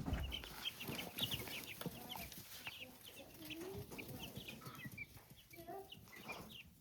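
A brood of young chicks cheeping: many short, high peeps in quick succession, with a few lower, sliding calls among them. A brief low thump right at the start.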